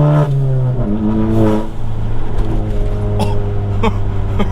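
Turbocharged 2.0-litre four-cylinder of a tuned MK7 Golf GTI pulling at high revs, then the revs drop as the driver shifts just under a second in, and the engine runs on at a steady lower pitch. A few short sharp pops come in the last second and a half.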